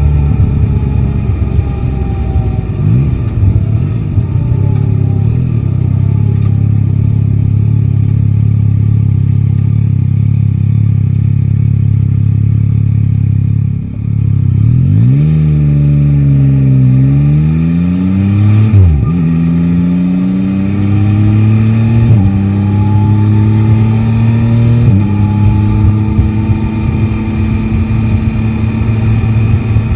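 Yamaha Tracer 9 GT's inline three-cylinder engine running at a steady pitch, then a little under halfway through rising and falling in pitch with a quick blip of the throttle. It then pulls up through the gears, the pitch climbing and stepping down twice with upshifts near the end.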